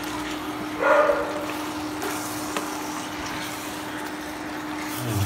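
Chicken with onion and spice powders frying in a pot, a steady sizzle over a low hum. A short voice-like call sounds about a second in.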